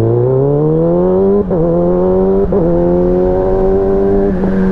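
Motorcycle engine accelerating, its pitch rising, then two quick upshifts about a second and a half and two and a half seconds in, after which it holds a steady pitch.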